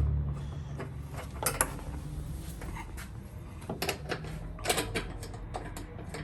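Scattered clicks and knocks of hand tools and fasteners being handled while bolts come off a UTV's plastic exhaust cover, over a low steady hum.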